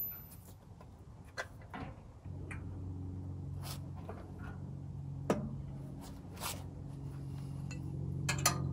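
Small-block Chevy 350 V8 idling steadily. It comes in suddenly about two seconds in, after a few light clicks and knocks, with occasional sharp ticks on top.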